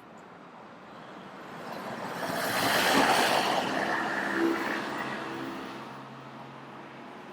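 A vehicle passing by: its noise swells, peaks about three seconds in, and fades away.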